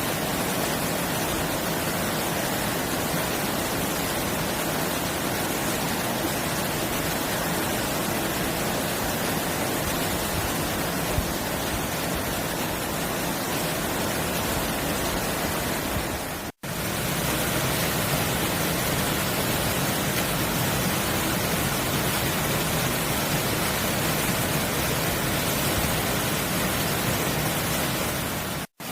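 Mountain stream rushing steadily, running full after rain. The sound drops out for an instant twice, about sixteen seconds in and near the end.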